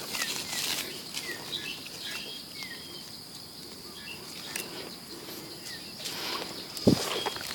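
A small bird calling outdoors with short down-slurred chirps, several in the first three seconds, over a steady high tone. Near the end, footsteps rustle through leaf litter, with a dull thump.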